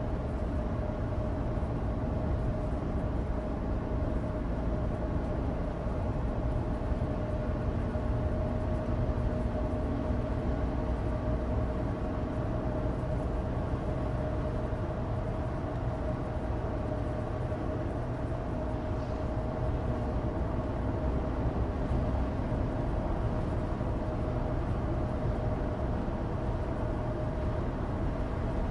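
Steady in-cabin driving noise of a 2016 Suzuki Alto Turbo RS: its 660 cc turbocharged three-cylinder engine holds an even drone with one steady tone, over the low rumble of studless winter tyres on dry asphalt.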